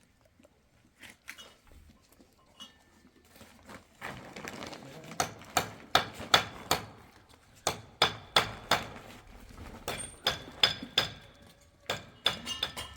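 Irregular sharp knocks and metallic clinks, one to three a second, starting about four seconds in, with ringing tones near the end.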